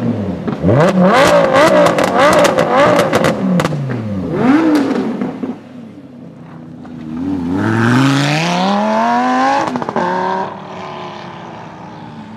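Lamborghini Huracán V10 revved several times with sharp exhaust pops in between, then a long rising pull as it accelerates away about seven seconds in.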